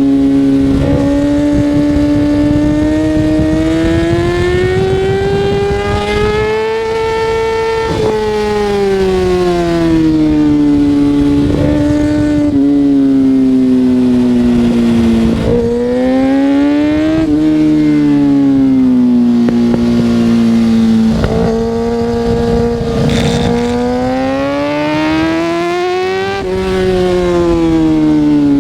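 Kawasaki ZX-6R 636's inline-four engine under way, its pitch climbing as it pulls and falling back again and again. There are several sudden drops in pitch.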